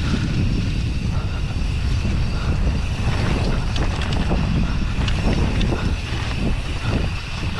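Wind rumbling on the microphone of a mountain bike riding fast downhill, with the bike rattling and knocking over rough trail.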